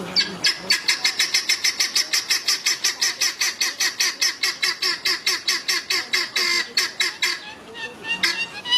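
Guinea fowl calling a rapid run of harsh, repeated cackling notes, about five a second, which stops about seven seconds in. A few different, higher chirping calls follow near the end.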